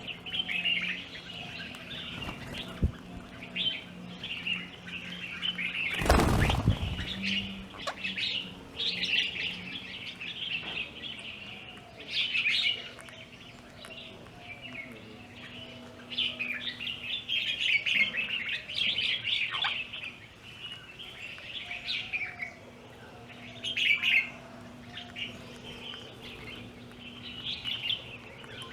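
Small birds chirping busily in a rapid, overlapping string of high chirps, with a brief loud rush of noise about six seconds in.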